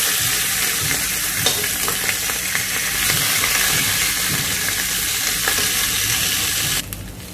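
Winged beans sizzling as they fry in oil in a pan on low heat, with the light clicks of a spoon stirring them. The sizzle drops off sharply just before the end.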